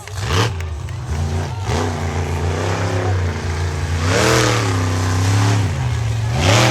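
Monster truck engine revving up and down several times over a steady low drone, with a sharp rise and fall in pitch about four seconds in and another near the end.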